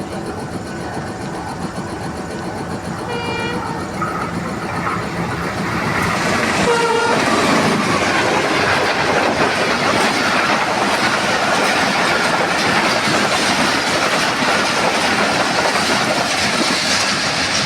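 Express train's locomotive horn sounding two short blasts, the second louder, then the train passing at speed with loud rushing and wheel clatter.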